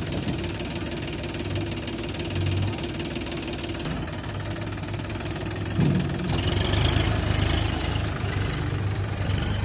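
Heavy diesel engine running at a steady speed. About six seconds in it gets louder, and a high hiss joins it.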